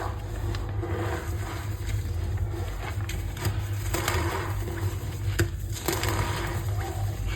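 Reformed blocks of gym chalk being crushed and crumbled, a continuous crackle with a few sharper snaps, over a steady low hum.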